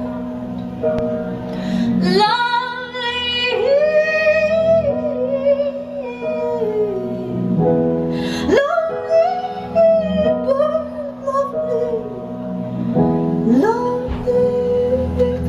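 A woman singing a slow song in long held notes over sustained keyboard chords; three times her voice slides upward into a new phrase.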